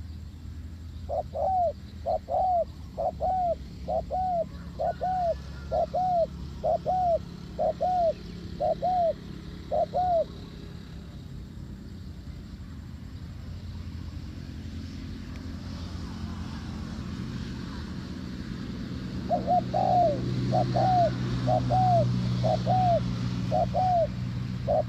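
A dove cooing in a long run of evenly spaced coos, about one a second, about ten in a row. It pauses for several seconds and then starts another run near the end. A steady low hum grows louder during the pause.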